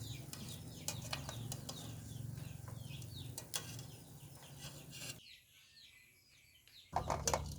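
Birds chirping in many short, falling calls over a low steady hum, with scattered sharp clicks. About five seconds in the sound drops to a quiet stretch, and sharp clicks return near the end.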